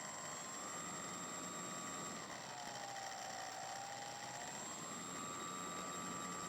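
Slow Stick model airplane's electric motor and propeller whining through its onboard microphone, under steady hiss from the video downlink. The whine drops in pitch about two seconds in, holds lower, then rises again near five seconds, as the throttle is eased back and opened up.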